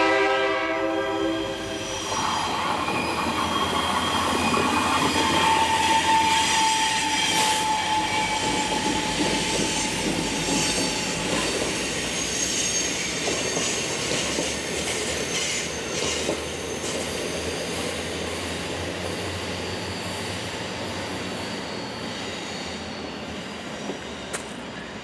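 Locomotive horn ending about two seconds in, then the CSX track geometry inspection train rolling past with wheel squeal and rail noise, fading away as it recedes.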